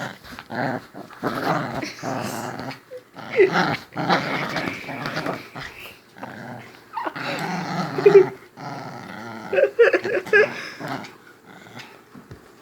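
Dog growling in several rough bouts, each a second or two long, with short breaks between them.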